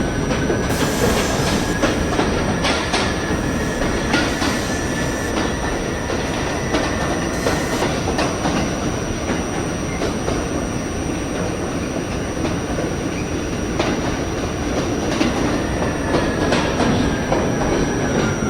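R68A subway car running at speed between stations: steady wheel-on-rail rumble with scattered clicks from the track. A faint whine rises slightly in pitch in the first seconds, holds, then falls near the end as the train slows.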